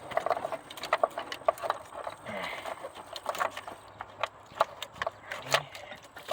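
Irregular light clicks and knocks, one to three a second, from a car's engine wiring harness and its plastic connectors and clips being handled and fitted in the engine bay.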